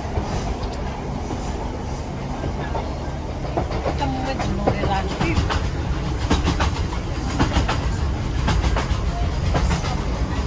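A moving train running with a steady low rumble, the wheels clicking rhythmically over the rail joints through the second half.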